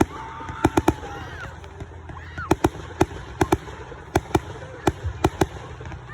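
Fireworks going off: about a dozen sharp bangs at irregular intervals, some in quick clusters of two or three.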